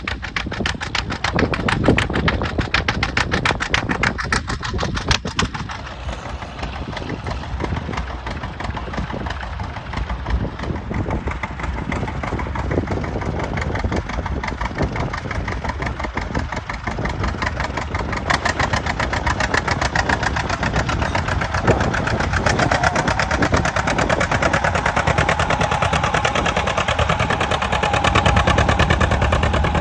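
John Deere G tractor's two-cylinder engine running with an even beat of rapid exhaust pops, pulling a moldboard plow; it grows a little louder toward the end.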